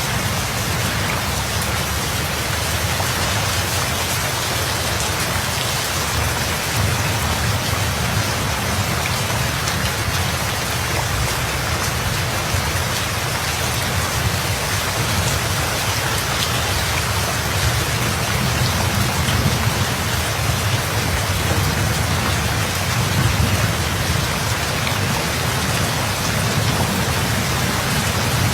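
Steady heavy rain falling, with a low rolling rumble of distant thunder underneath that swells slightly a couple of times.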